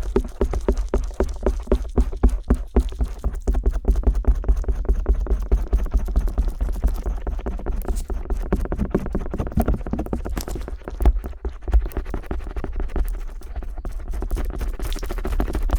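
Stainless steel ear pick scraping and tapping on the silicone outer ear of a 3Dio binaural microphone, in rapid, close strokes. The strokes come about four a second at first, then grow denser and a little softer.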